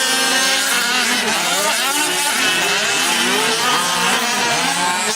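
Several 1/5-scale gas RC off-road trucks racing, their small two-stroke engines revving up and down over one another.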